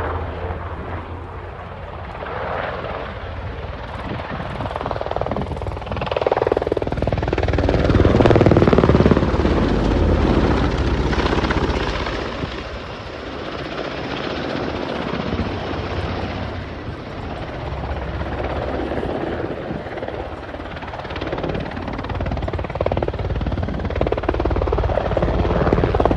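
Helicopter rotor and turbine engine sound, swelling to its loudest about a third of the way in and then easing off.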